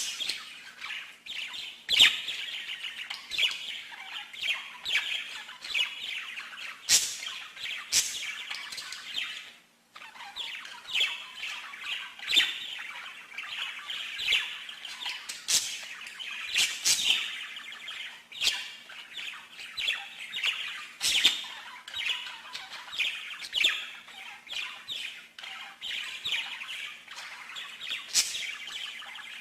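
Small pet birds chirping and chattering nonstop, a dense warbling with sharp squawks mixed in, broken by a short drop-out about ten seconds in.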